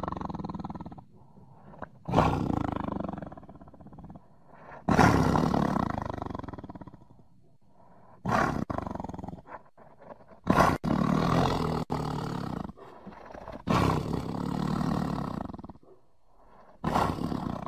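Tiger roaring repeatedly: about six separate roars, each starting suddenly and fading over a second or two, with short pauses between.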